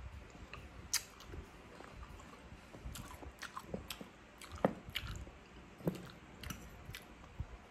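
Close-miked chewing and mouth sounds of a person eating, with scattered short wet clicks and crunches.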